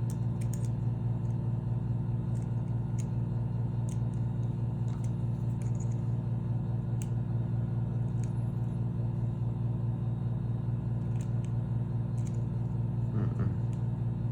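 Steady low machinery hum throughout, with a few faint metallic clicks and scrapes from tools prying at a door handle's lock mechanism.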